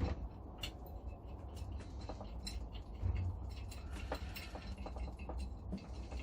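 Irregular light clicks and taps of metal parts and hand tools being handled while a 2x72 belt grinder is put together, over a steady low rumble.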